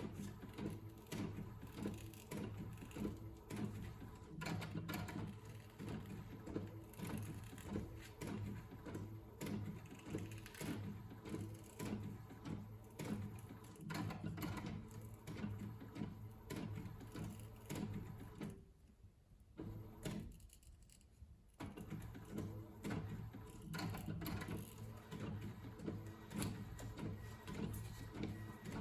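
Paper and packaging being handled: irregular rustles, taps and clicks over a steady low hum, which drop out for a few seconds about two-thirds of the way through.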